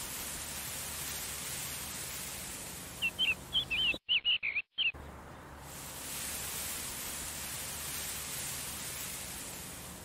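A small bird giving a quick run of short, high chirps about three seconds in, over a steady outdoor hiss.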